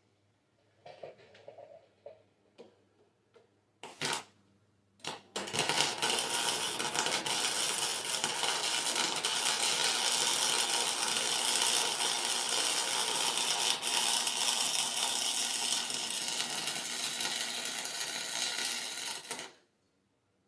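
Welding arc crackling steadily for about fourteen seconds while welding up a lawn mower's differential, cutting off suddenly near the end. Two short sharp clicks come just before it starts.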